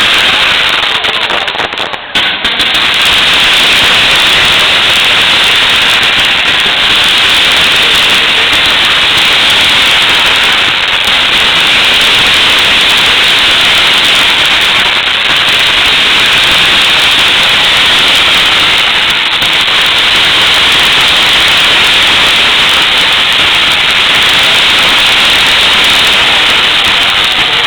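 Firework display crackling continuously, a dense unbroken sizzle of crackle with no separate bangs.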